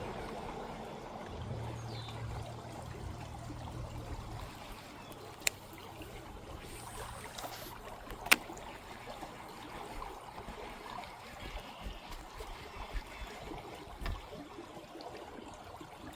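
Steady rush of flowing creek water, with a low hum that fades away over the first several seconds. Two sharp clicks come about 5 and 8 seconds in, the second the louder.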